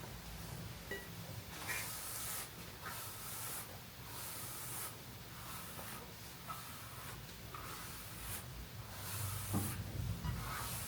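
Quiet handling sounds: a few short spray-like hisses, light rubbing and small clicks over a low steady hum.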